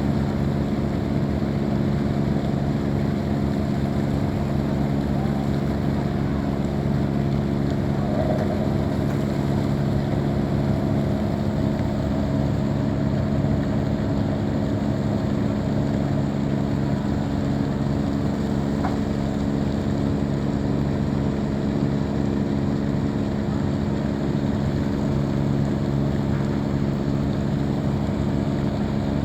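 Boat engine running steadily, an even, unchanging hum.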